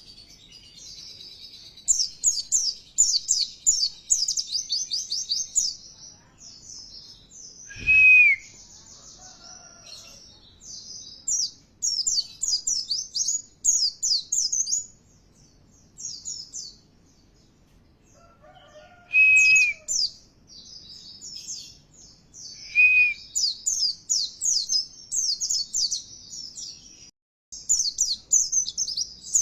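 Pleci (white-eye, Zosterops) singing: bursts of rapid, high twittering chirps a few seconds long with short pauses between them. Three times a louder, lower single whistled note cuts in.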